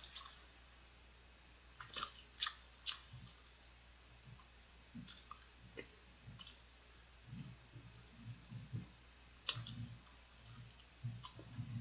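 Faint chewing of fried chicken close to the microphone. Scattered sharp mouth clicks come with soft low thumps between them.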